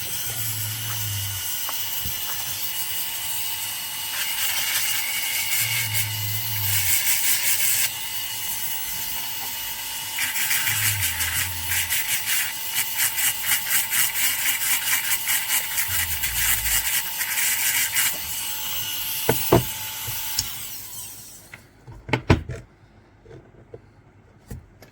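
Dental handpiece spinning a fine finishing bur with water coolant over an amalgam filling: a steady whine and hiss that pulses as the bur is worked against the amalgam with light pressure. It winds down about 21 seconds in, followed by a few sharp clicks.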